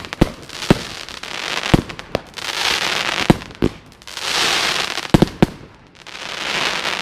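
Consumer firework batteries (cakes) firing: sharp bangs from shots going off, and three stretches of crackling and hissing from the bursting effects that swell up and die away.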